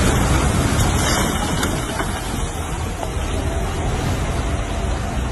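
Landslide: a steady rushing noise of sliding earth and debris with a deep low rumble underneath, no separate impacts standing out.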